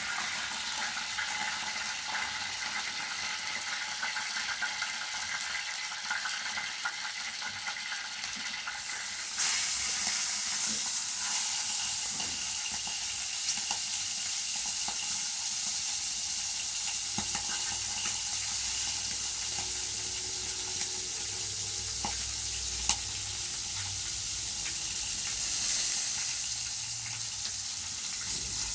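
Food frying in hot oil, a steady sizzle that grows louder about nine seconds in, with a few light clicks.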